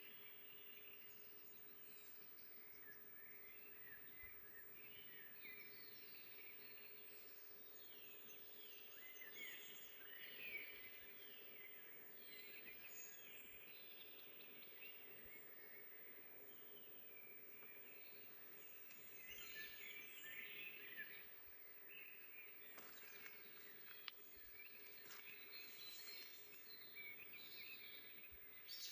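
Faint forest birdsong: several small birds chirping and trilling in quick, overlapping phrases, over a faint steady hum.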